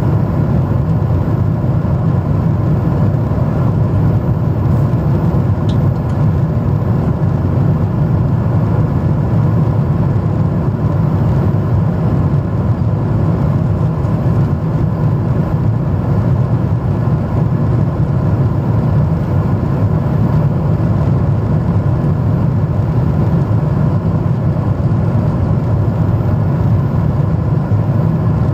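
Jet airliner cabin noise in flight: a steady, loud rumble of engines and airflow with a faint steady hum above it, unchanging throughout.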